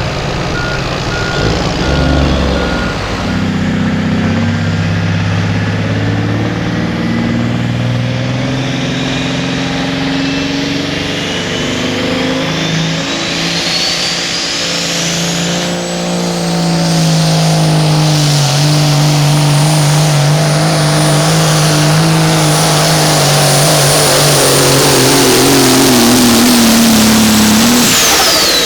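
A turbocharged pulling engine running at full power through a pull: a steady engine note under a turbo whine that climbs for about fifteen seconds and then holds high. Near the end the whine falls away sharply and the engine note drops as the throttle comes off.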